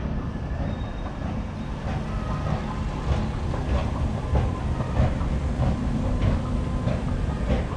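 Steady rumble of a moving rail vehicle heard from inside, with rattles and clicks: an airport people-mover train running.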